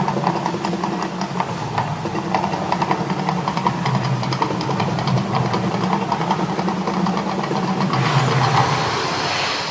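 Mirage Volcano show: a steady low drone with rapid ticking over it. A hissing rush swells about eight seconds in, as the eruption effects go off.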